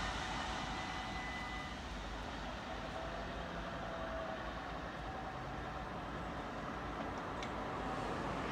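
Steady rumble of a double-deck electric passenger train moving away from a level crossing, fading over the first few seconds and then holding at a low, even level.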